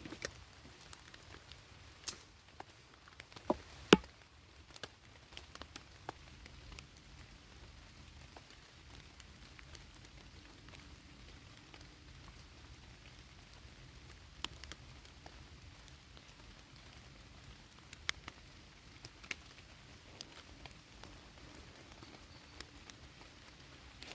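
Light rain with scattered drops pattering, over a faint steady hiss. A few sharp taps stand out, the loudest about four seconds in.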